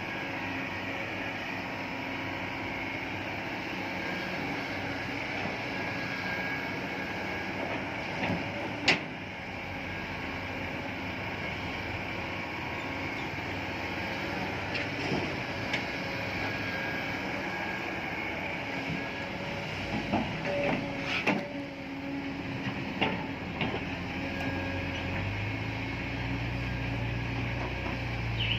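Steady mechanical running noise, like a vehicle or machine, with a sharp knock about nine seconds in and a few more clanks later; a deeper rumble comes in near the end.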